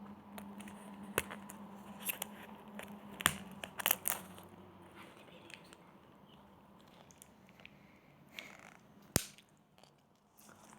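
Surprise-toy packaging being worked open by hand, giving several sharp clicks and crackles a second or more apart.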